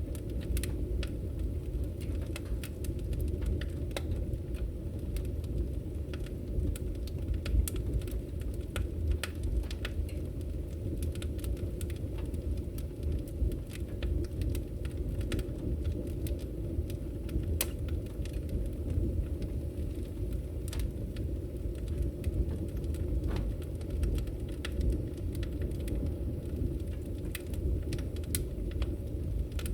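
Logs burning in a fireplace: a steady low rumble of the fire with irregular sharp crackles and pops.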